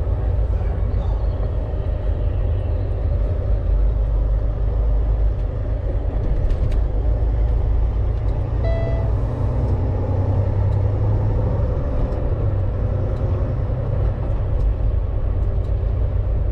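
Steady engine and road drone inside the cab of a Volvo VNL 860 semi-truck on the move. A single short beep sounds about nine seconds in.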